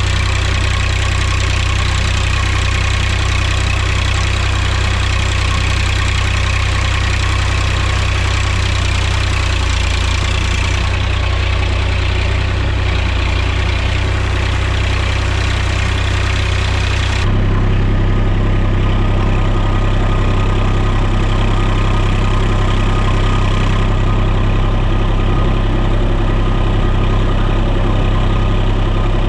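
Mahindra tractor's diesel engine running steadily. About two-thirds of the way through, the sound changes abruptly to a heavier, lower rumble with less hiss.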